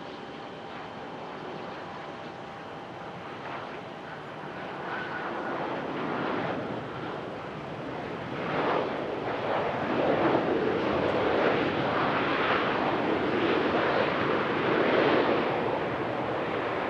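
An airplane's engines running as it passes on the runway, growing louder about eight seconds in and staying loud.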